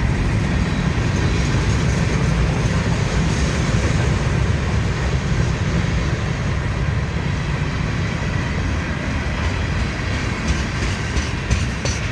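A very long train's cars rolling slowly past with a steady low rumble. Near the end, sharp clicks of the wheels crossing rail joints come through.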